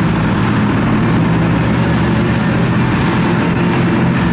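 Ford Maverick's 302 V8 cruising at highway speed alongside, a steady, even engine drone with no revving, mixed with road and wind noise.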